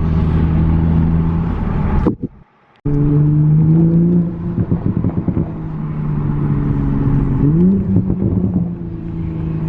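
Car engine running under way, a steady low engine note that cuts out abruptly for under a second about two seconds in, then rises in pitch near the eight-second mark as the car accelerates.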